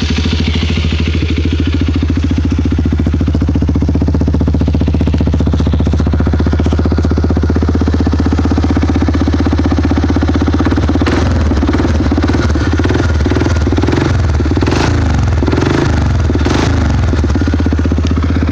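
2012 Suzuki KingQuad 400 ATV's single-cylinder four-stroke engine idling right after a cold start through an HMF Penland Pro Series aftermarket exhaust, with a loud, deep, throaty note. In the second half it is revved in several short blips to about quarter throttle.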